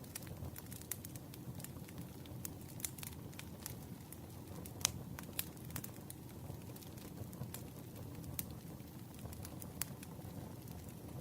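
Campfire crackling: a steady low rush of burning wood with frequent sharp pops, the loudest about five seconds in.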